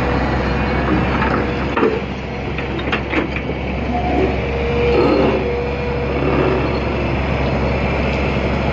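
Hitachi ZX200 excavator's diesel engine running steadily while loading a truck, with a few short knocks and clatters about two and three seconds in.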